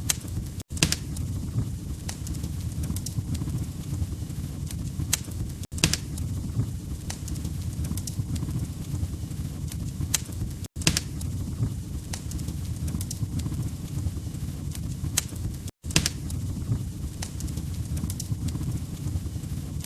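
Log fire crackling, with sharp pops and snaps over a steady low rumble of flame. The sound cuts out for a split second about every five seconds.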